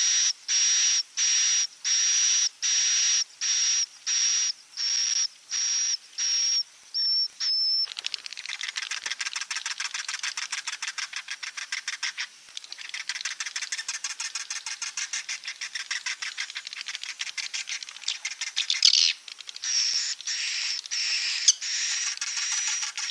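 Swiftlet calls from a lure recording for a swiftlet roosting house. Evenly spaced, sharp, high chirps come at about one and a half a second. About eight seconds in they turn into a fast buzzing twitter, and near the end they go back to spaced chirps.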